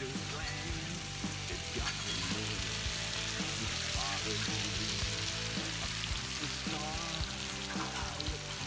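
Sliced bell peppers and onions sizzling as they sauté in a frying pan, a steady hiss of frying.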